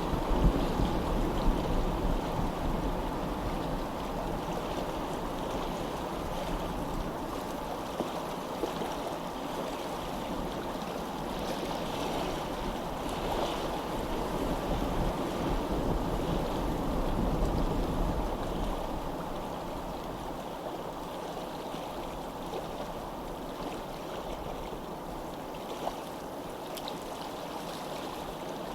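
Steady rush of running water, swelling a little louder partway through and easing off again.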